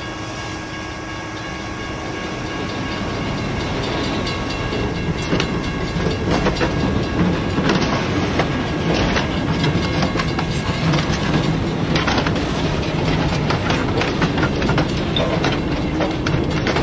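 Diesel locomotive and freight wagons passing at close range, the engine's steady drone giving way after about five seconds to louder clattering wheels and repeated knocks and cracks as the train scrapes along a parked pickup truck's side, tearing off body panels.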